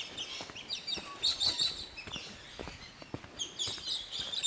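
Small birds chirping and twittering in quick, repeated high calls, with a few faint clicks scattered among them.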